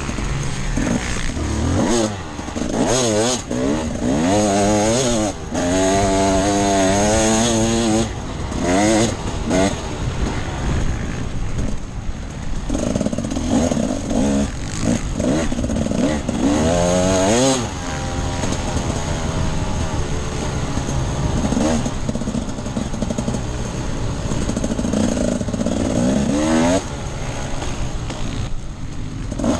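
Enduro motorcycle engine on an off-road ride, its pitch climbing and dropping repeatedly as the throttle is opened and closed, with short dips where the rider backs off or shifts.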